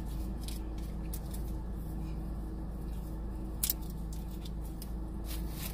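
Close-miked eating sounds: chewing with scattered small wet mouth clicks and smacks, two of them stronger near the middle and near the end, over a steady low hum.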